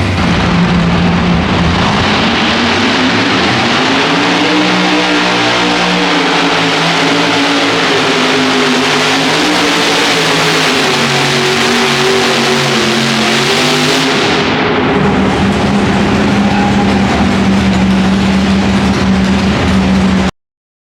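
Modified pulling tractor's engines running at full power during a pull, loud throughout. The pitch climbs a few seconds in, rises and falls, then holds steady near the end. The sound cuts off abruptly.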